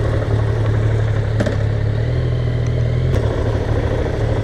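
Kawasaki Z900's inline-four motorcycle engine running steadily at low revs, with a light click or two.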